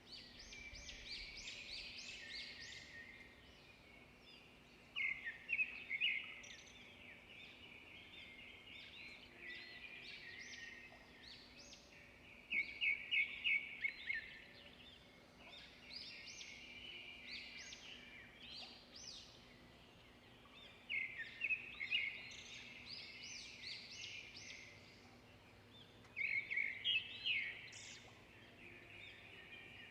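Songbirds singing continuously in many overlapping chirps and trills. A louder phrase of rapid repeated notes comes back about every seven seconds, four times.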